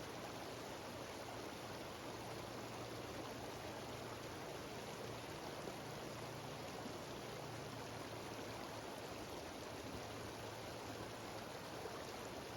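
Mountain stream cascading down a small waterfall: a steady, unbroken rush of running water.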